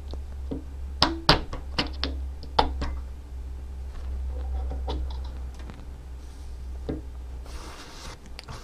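Several sharp clicks and knocks of small parts and hand tools being handled on a workbench, mostly in a quick cluster about a second in, over a steady low hum that fades out near the end.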